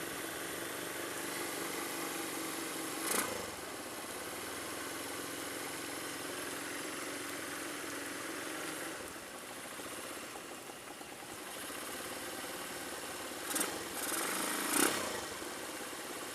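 Steady vehicle engine and road noise mixed with rain hiss, picked up by an action camera's built-in microphone. There are brief louder rushes of noise about three seconds in and twice near the end.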